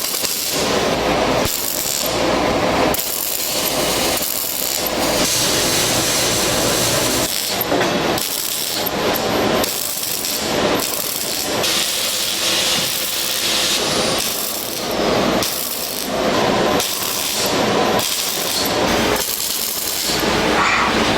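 Loud factory power-tool noise working metal, starting and stopping in bursts of about a second each.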